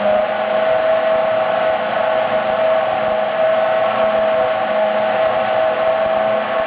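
Toyota Formula 1 engine running at steady, held revs: an even, high-pitched engine tone that holds without revving up or down.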